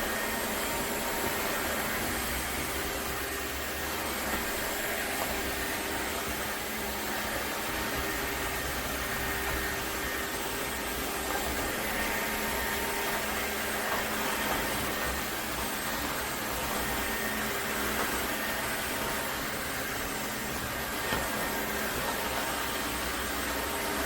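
Dreame H12S wet-dry vacuum mop running steadily, a continuous even motor and suction noise with a few faint steady tones in it.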